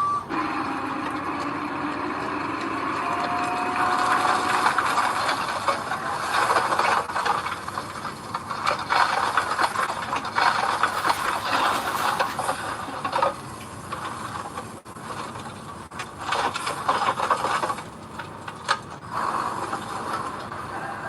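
Gravel sliding and rattling out of a dump truck's tipping bed, with the truck's engine running. It is a continuous grainy rush that swells and fades over several seconds.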